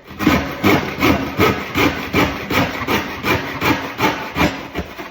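Handsaw cutting through a kitchen worktop to finish the corner of a sink cutout, with steady back-and-forth strokes at about two and a half a second.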